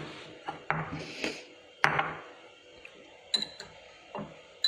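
Utensil clinking and scraping against a mixing bowl as seasoned flour is stirred together: several separate knocks, the loudest about two seconds in.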